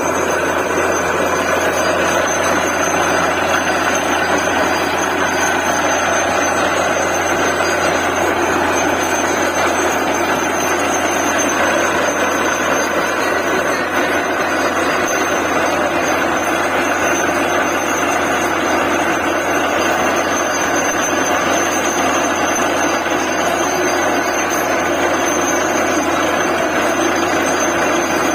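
Borewell drilling rig running steadily and loudly without a break: the rig's engine and air compressor at work during DTH drilling.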